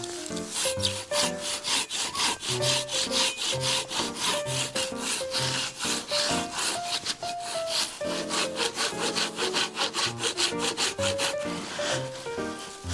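Hand saw cutting through a thick log, with fast, even back-and-forth strokes at about three a second. Background music plays underneath.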